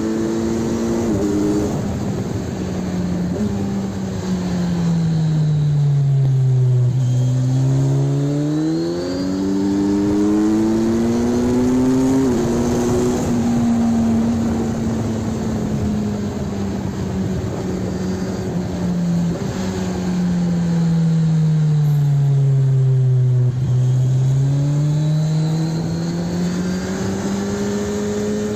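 Kawasaki Ninja 1000 SX's inline-four engine running through its exhaust while riding on the road. The engine note sinks slowly to a low point and climbs back up twice, with a few quick shifts in between.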